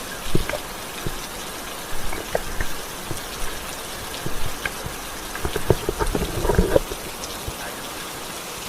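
Steady rain hiss, with scattered drips and knocks, a cluster of them a few seconds in.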